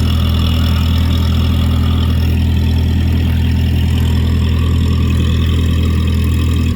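Pest-control sprayer truck's engine running loud and steady with a deep drone, which cuts off at the very end.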